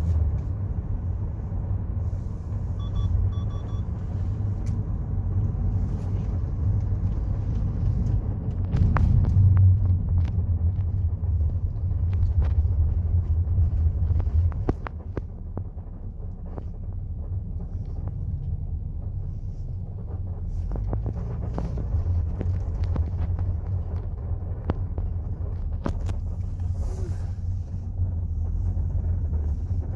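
Steady low rumble of a car's road and engine noise heard from inside the moving car, with a few faint clicks; it gets somewhat quieter about halfway through.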